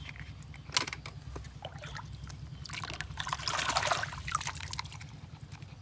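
Water trickling and splashing as a toy car is rinsed, with a few small clicks and knocks, and a longer burst of splashing about three seconds in that lasts around a second.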